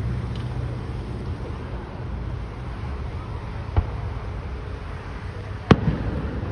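Fireworks bursting during a display: two sharp bangs, a smaller one a little past halfway and a louder one near the end, over a steady low rumble.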